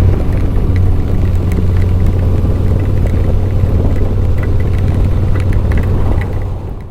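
Harley-Davidson V-twin engine running steadily under way, fading out near the end.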